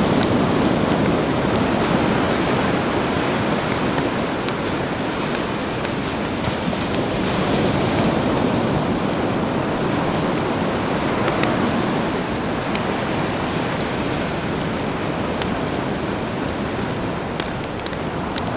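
Campfire crackling with scattered sharp pops over a steady wash of sea surf that swells and eases slowly.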